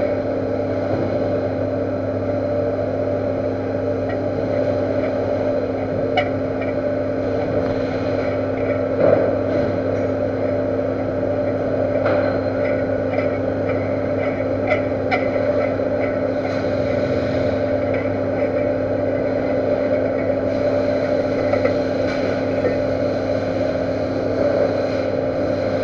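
Metal lathe running with a steady multi-tone machine hum and scattered light ticks, as it cuts a new thread on a weld-built-up spindle tube.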